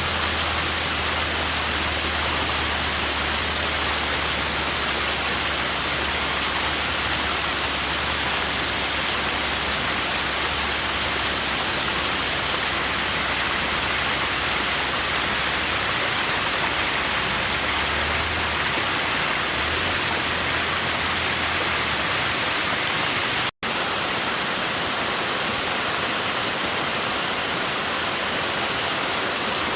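Steady rushing water noise, even and unbroken, which drops out for an instant about three-quarters of the way through.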